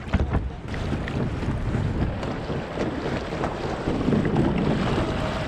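Steady wind noise on an action-camera microphone over water sloshing around a kayak, with a few light knocks about the start.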